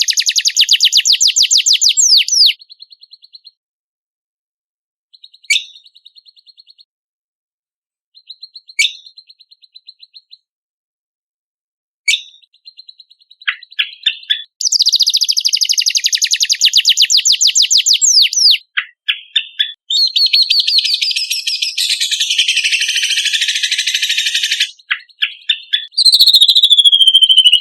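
Cucak kombok (kecial kombok) songbird singing: loud, rapid high-pitched trills near the start, then scattered chirps and short buzzy notes with pauses between them, before another long rapid trill and a dense, scratchy run of song. A high falling whistle comes near the end.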